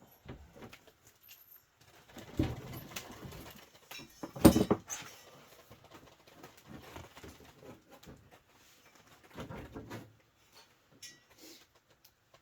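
Hand-work noises from fitting the rear window's mounting bolts and panel: scattered knocks, rubs and small clicks, with a sharper knock about two and a half seconds in and the loudest knock about four and a half seconds in.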